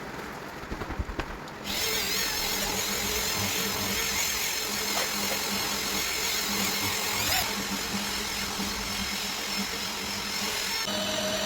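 Electric machine polisher running steadily on car paintwork, starting about two seconds in after a few knocks, its note changing shortly before the end.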